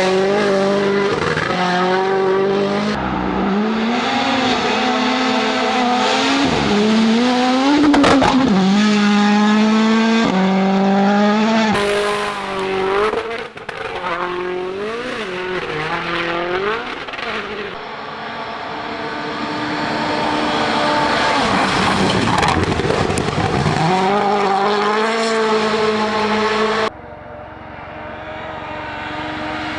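Rally1 rally cars driven flat out, their 1.6-litre turbocharged four-cylinder engines revving hard and dropping in pitch at each gear change. The sound switches abruptly from one car to another several times.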